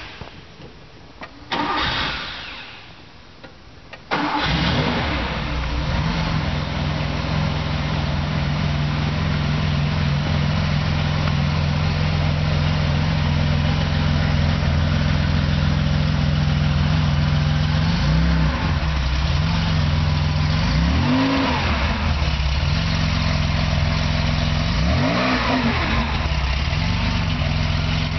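Air-cooled flat-six engine of an early-1970s Porsche 911T being started. A short first try about a second and a half in fades away, then the engine catches about four seconds in and idles steadily. It is blipped three times near the end, one small rev and then two larger ones.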